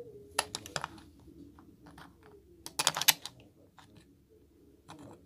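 Plastic Lego bricks clicking as pieces are handled and pressed together: a few sharp clicks about half a second in and a quick cluster of clicks about three seconds in.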